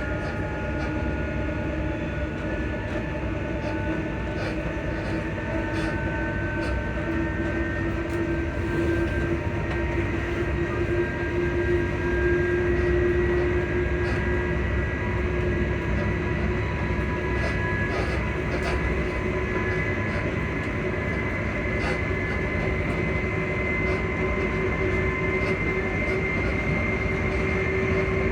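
Motors of a ScotRail Class 334 electric multiple unit heard on board, whining in several steady tones that rise slowly in pitch as the train gathers speed, over a steady rumble of the wheels on the track with scattered faint clicks. The motor whine is the unit's odd motor sound.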